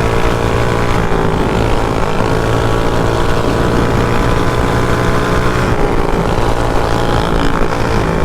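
Mini bike's small engine running at a steady speed while riding, holding a nearly even pitch, heard close up from the rider's chin-mounted camera.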